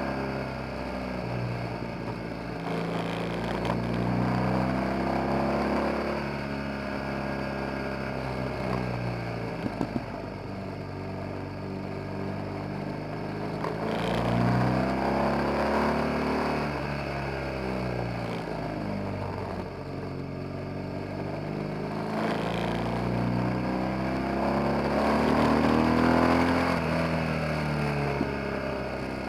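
BMW R 1200 GS boxer twin engine under way, heard from the rear of the bike. Its pitch climbs as it accelerates and drops back as it slows, about three times over.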